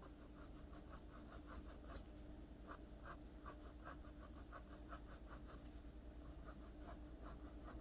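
Pencil scratching on paper in quick, short, repeated strokes, several a second, as fine hair details are drawn. Faint throughout.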